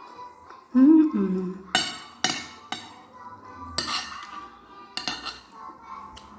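Cutlery clinking and scraping against a plate while food is eaten: about five sharp clinks, the loudest around two seconds in. A short vocal sound comes about a second in, over faint background music.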